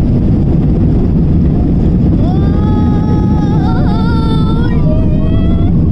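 Loud, steady roar of an airliner's engines and airflow heard inside the cabin during take-off. From about two seconds in, a high-pitched voice sounds over it, wavering slightly, until near the end.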